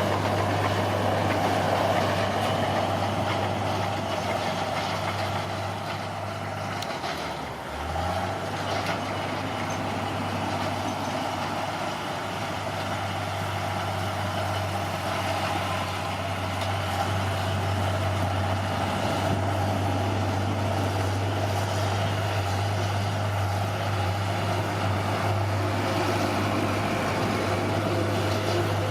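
Bulldozer's diesel engine running steadily under load; its revs sag about seven seconds in and climb back up a second later.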